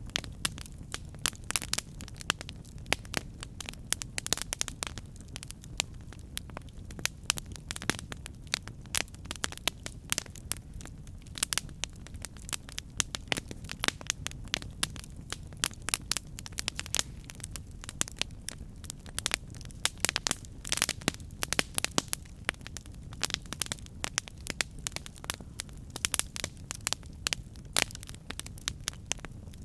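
Campfire burning with constant irregular crackles and sharp pops of burning wood over a low steady rumble of flame.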